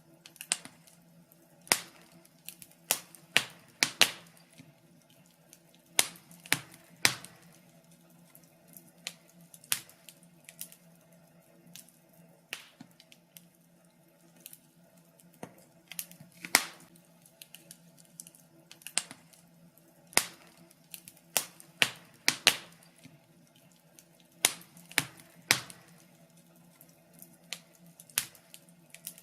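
Fire in a fireplace crackling: irregular sharp pops and snaps at uneven intervals, over a faint steady low hum.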